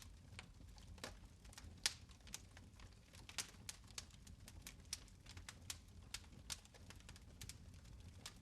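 Fire in a fireplace crackling: irregular sharp pops and snaps, several a second, over a faint low steady rumble.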